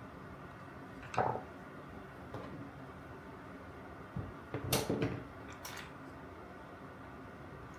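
Knocks and clicks of tool parts being handled on a workbench: one knock about a second in, then a quick cluster of knocks and clicks a little past the middle.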